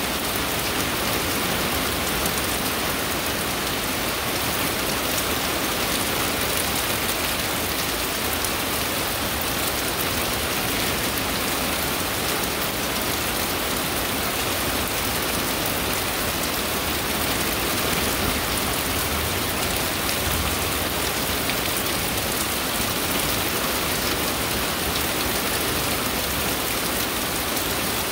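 Heavy tropical-storm rain falling steadily on the leaves of a broadleaf forest, a dense even hiss with fine drops pattering through it.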